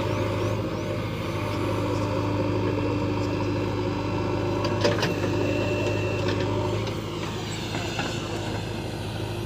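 JCB 3DX backhoe loader's diesel engine running steadily while digging, with a single sharp clank about five seconds in.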